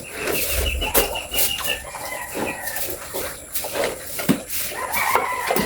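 High-pitched, drawn-out farm animal calls: one long, steady call lasting nearly two seconds at the start, and another near the end, over scattered clatter.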